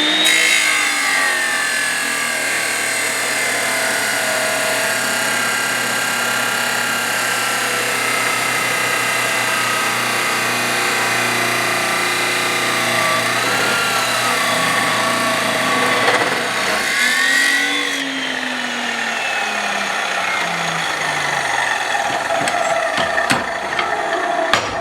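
Power cutting tool with an abrasive cut-off wheel running continuously while cutting through mild steel flat bar. Its motor pitch sags slowly under load and picks up again about two-thirds of the way through.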